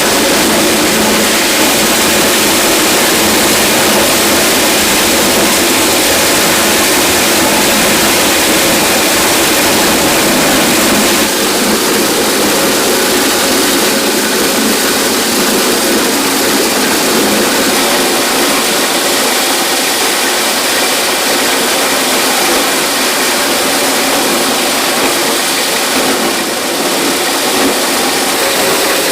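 An engine or motor-driven machine running steadily and loud, with a slight change in its sound about eleven seconds in.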